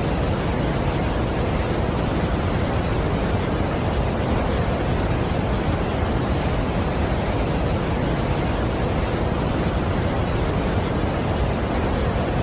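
Steady roar of a large waterfall: an even, unbroken rushing noise, heaviest in the low end.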